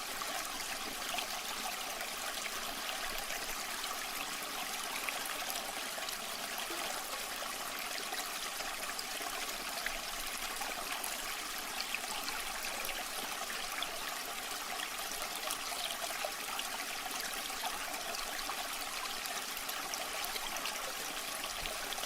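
Waterfall water running and splashing steadily: an even rush with many fine splashes and little deep rumble.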